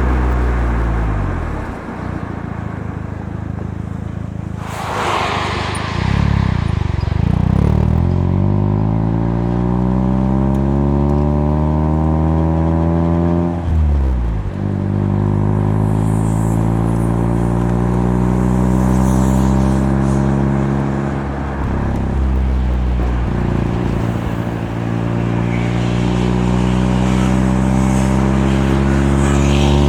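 Mazda RX-7 FC3S twin-rotor rotary engine through a Knight Sports Legal Sports aftermarket muffler, accelerating through the gears. The exhaust note rises steadily in pitch, then drops sharply at each upshift, about four times. There is a brief rushing noise about five seconds in.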